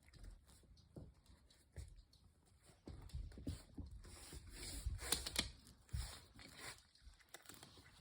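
A cat moving about on a hard floor: light scattered taps and scuffs of its paws, with a brief burst of rustling about five seconds in.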